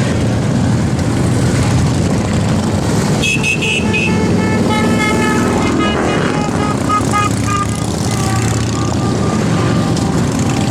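Motorcycle engines running steadily, with a run of short horn toots from about three seconds in to about seven and a half seconds.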